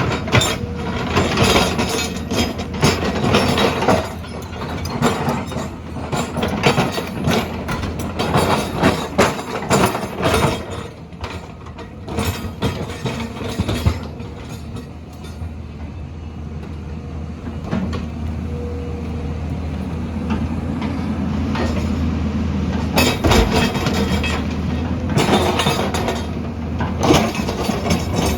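Heavy earthmoving machine at work: a diesel engine running under clanking and scraping of metal against rock and gravel, busy for the first half, easing to a steadier engine hum in the middle, with clanks returning near the end.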